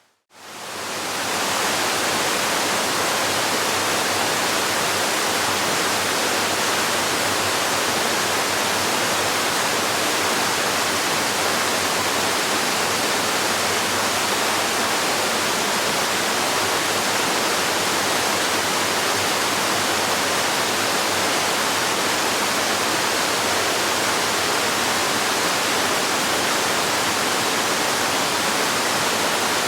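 Waterfall: a steady, even rush of falling water, fading back in over the first second or so after a brief gap.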